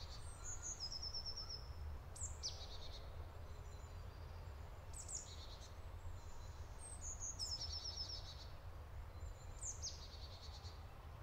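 A songbird singing short repeated phrases, each a quick falling note followed by a fast run of high notes, about every two to three seconds, faint over a steady low rumble.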